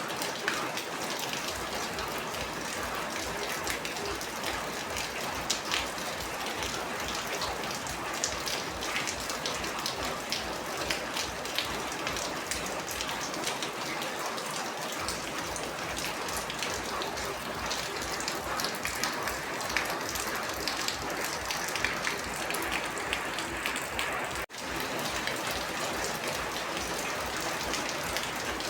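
Steady rainfall: a dense hiss of rain with many distinct drops pattering close by. There is a split-second dropout about three-quarters of the way through.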